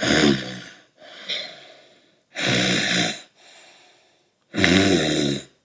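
A man's voice making three loud, breathy wordless vocal sounds, about two seconds apart, each falling in pitch: gasps or snorts voicing a cartoon bird.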